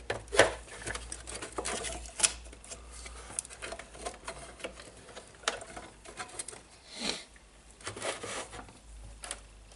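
Irregular clicks, taps and light rattles of tools and small parts being handled on a workbench, with sharper knocks just after the start and about two seconds in.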